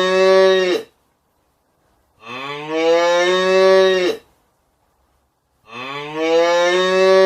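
A cow mooing: the tail of one moo, then two more long moos of about two seconds each, each rising in pitch at the start and then held, with silent gaps between them.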